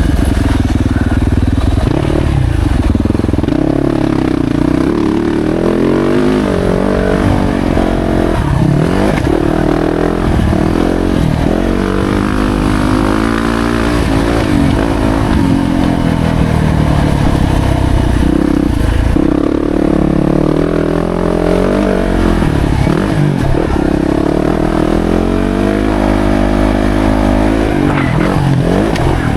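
2025 Yamaha YZ450F's single-cylinder four-stroke engine heard on board while being ridden, its pitch climbing and dropping over and over with the throttle and gear changes.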